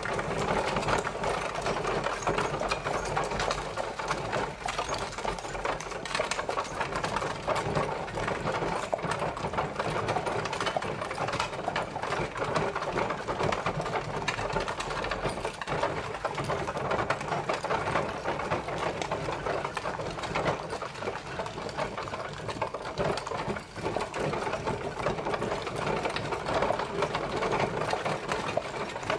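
Horse-drawn carriage travelling: a steady, dense rattle and clatter of the rolling carriage, made of many rapid small clicks.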